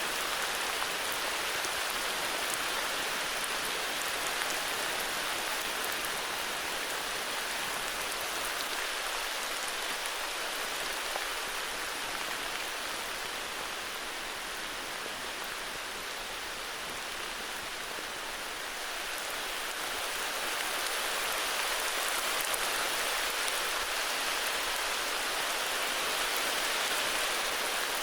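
Heavy rain falling steadily, a dense even hiss of drops with fine patter on surfaces, easing slightly partway through and building again.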